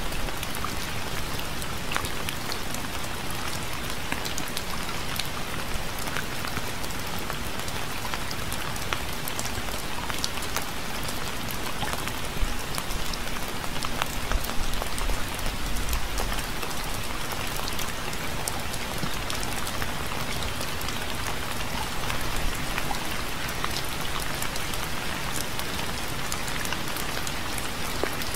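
Steady rain falling, an even hiss with many individual drops ticking through it. A brief low rumble comes about halfway through.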